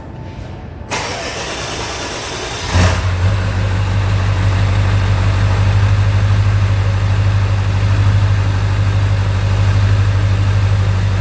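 Ford 7.3 Powerstroke V8 turbodiesel cold-starting: the starter cranks for about two seconds, the engine fires about three seconds in, then settles straight into a steady idle. A clean, quick cold start.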